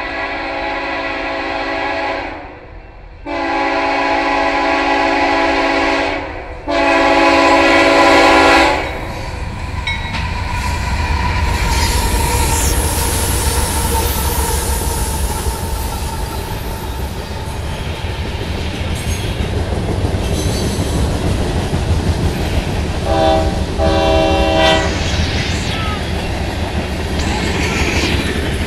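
Diesel freight locomotive horn sounding for a grade crossing: the tail of one blast, then two more long blasts, the last ending about nine seconds in. Then the CSX locomotives and freight cars roll past with a steady rumble and clatter of wheels on rail, with two short horn notes about two-thirds of the way through and high wheel squeals near the end.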